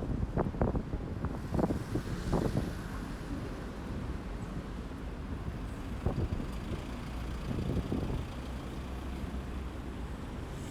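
Strong wind buffeting a phone's microphone: a low rumble with irregular gusts, heaviest in the first couple of seconds and flaring again around the middle.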